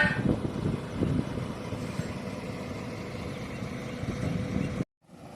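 The engine of a heavy vehicle, a truck or tractor, running steadily. There is a short sharp sound right at the start, and the sound cuts out for a moment near the end.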